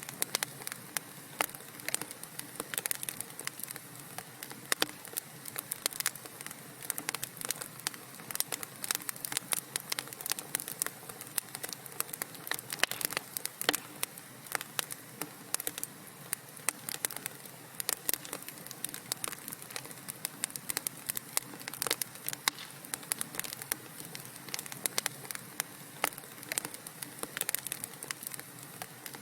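Wood fire crackling: a dense, irregular stream of small pops and snaps over a steady soft hiss.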